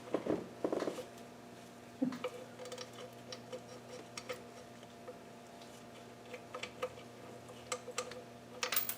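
Faint, scattered metallic clicks and taps of a small bolt and fingers working against engine parts, with a quick run of clicks near the end as the small bolt drops.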